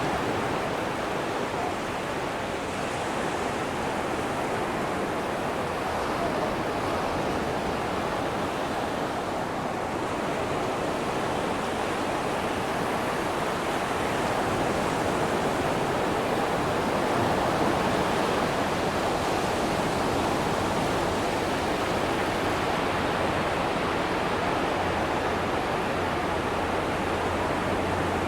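Atlantic ocean surf breaking on a sandy beach: a continuous, even rush of waves that swells a little about halfway through.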